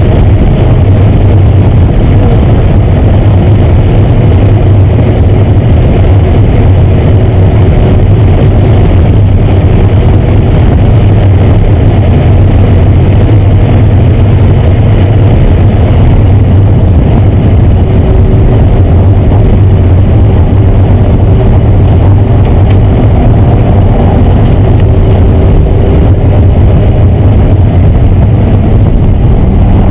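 Car engine held at high revs, around 6,000 to 7,000 rpm, at track speed, heard from inside the cabin together with wind and road noise. Loud and steady, with no gear change or lift.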